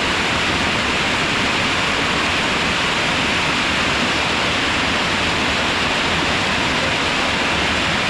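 Waterfall: water falling and crashing in a steady, loud rush with no let-up.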